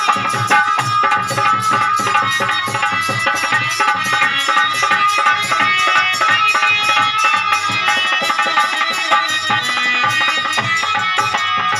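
Instrumental interlude of live Hindu devotional bhajan music: tabla keeping a fast rhythm under a sustained melody instrument, with small cymbals jingling.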